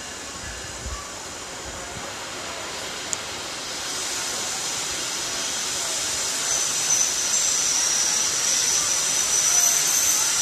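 Argo Lawu passenger train rolling into the station along the platform, its rolling noise rising to a loud hiss. A high steady squeal joins about six seconds in and grows louder as the coaches pass.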